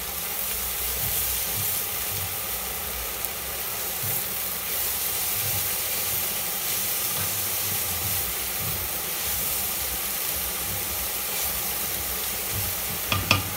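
Mixed vegetables with cauliflower, carrots and corn on the cob sizzling steadily in a hot frying pan as they are stirred with a spatula, with a few light knocks near the end.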